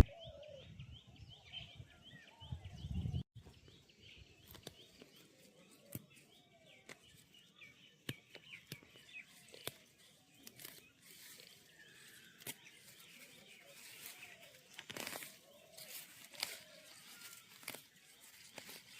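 Quiet rural outdoor ambience with many small birds chirping over and over, some lower calls, and scattered clicks and rustles. A brief low rumble about three seconds in is the loudest moment.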